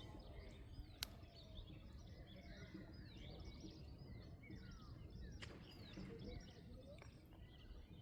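Many small birds chirping over a faint low outdoor rumble, with a sharp click about a second in and a fainter one later.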